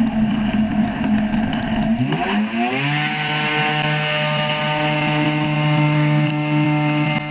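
Engine of a homemade flying boat running, then revving up about two to three seconds in and holding steady at the higher speed.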